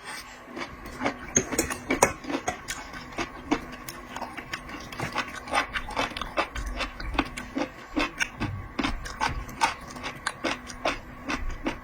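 Close-up eating sounds of seafood: irregular clicks, crackles and scrapes of shells being handled and chewed, several a second, over a faint steady hum.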